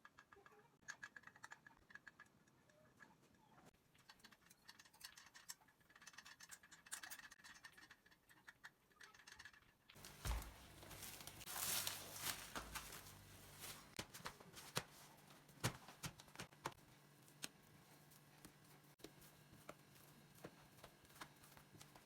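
Faint scattered clicks and taps. About ten seconds in, a louder stretch of rustling and sharper clicks starts over a steady low hum.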